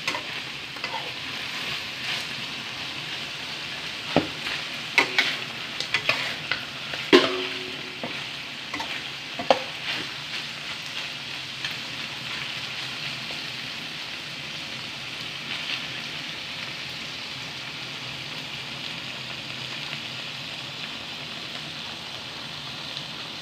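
Chicken pieces sizzling in a hot steel wok while a spatula stirs them, knocking and scraping against the wok a dozen or so times in the first ten seconds; after that a steady, even sizzle.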